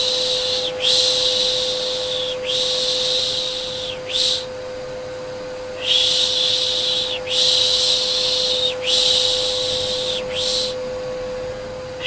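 Rhythmic 'shhh' shushing to soothe a baby, each shush about a second and a half long, coming in runs of three long shushes and a short one with a pause between runs. Beneath it runs the steady hum of a vacuum cleaner.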